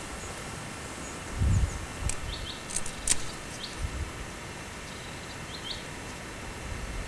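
Small birds chirping in short, quick pairs of calls several times over a steady outdoor hiss. A few low thumps on the microphone, the loudest about a second and a half in, and some sharp clicks between two and three seconds in.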